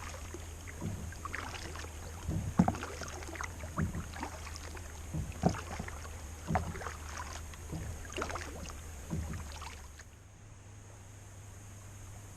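Kayak paddle strokes dipping and splashing in calm lake water, about one stroke a second, stopping about ten seconds in and leaving only a steady low hum.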